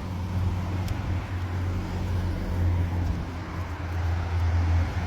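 Road traffic going by: a steady low rumble of vehicles with a broad hiss of tyres.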